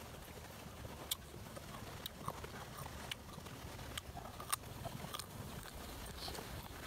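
Crisp bites and open-mouthed chewing of green ambarella (June plum) slices with chili salt, giving sharp crunches about once a second.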